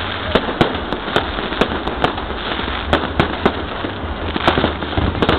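Fireworks exploding overhead in a dense, irregular string of sharp bangs, about two a second, over a constant noisy din of further bursts.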